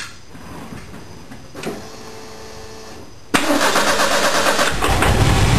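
Ford 2.3 L turbocharged four-cylinder engine being started for the first time: after a few seconds of near-quiet with small knocks, it suddenly starts cranking about three seconds in. It catches and runs, building heavier low rumble near the end and running rough on its first start.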